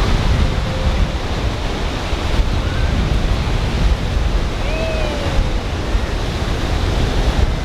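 Ocean surf washing on a beach with wind buffeting the microphone. A faint short gliding call comes about five seconds in.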